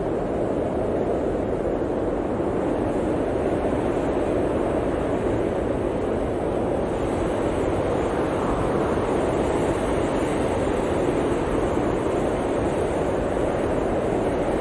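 Blizzard wind blowing steadily, a dense rushing noise that swells slightly a little past the middle.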